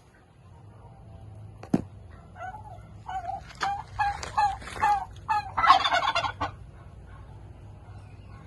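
Domestic turkey gobbling in a run of rapid calls lasting about four seconds, loudest near the end. A single sharp knock comes before it, a little under two seconds in.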